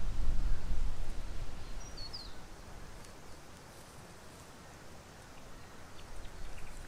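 Outdoor ambience: wind rumbling on the microphone, dying down after about a second and a half, with a short bird chirp about two seconds in and a few faint ticks near the end.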